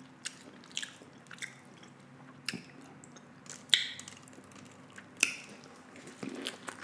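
A person chewing food close to the microphone, with scattered wet mouth smacks and clicks every second or so.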